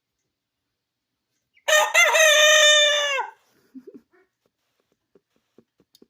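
A rooster crows once, a single loud crow of about a second and a half starting a little under two seconds in, its pitch dropping at the end.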